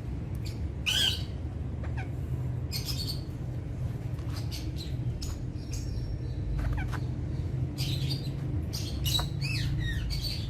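Alexandrine parakeets giving short squawks and chirps at irregular intervals, the loudest about a second in and a cluster near the end, over a steady low hum.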